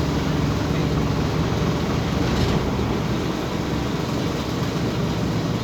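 Scania OmniCity city bus running, with a steady diesel engine hum and road noise. The engine note eases off around the middle and picks up again near the end, and there is a short hiss about two and a half seconds in.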